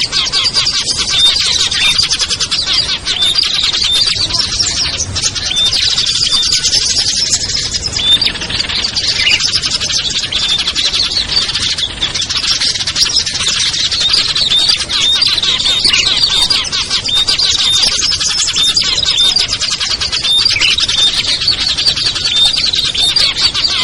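A busy mixed chorus of small songbirds chirping and twittering nonstop, many short high notes and trills overlapping with no pause.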